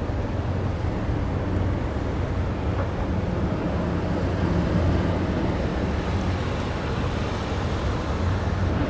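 Steady low drone of a passing ferry's engines, with wind on the microphone.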